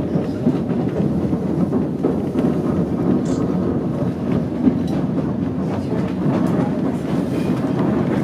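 White Pass and Yukon Route narrow-gauge train rolling along the track: a steady rumble of wheels on rails, with a few faint clicks.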